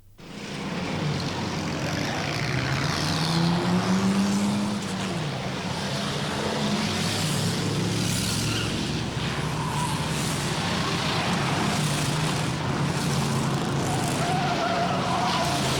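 Stock car engines running on a short oval track. Several engines rise and fall in pitch, and the sound starts suddenly and stays steady in level.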